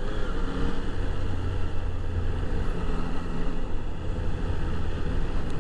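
Motorcycle engine running steadily under the rider, a low hum with a constant haze of wind and road noise.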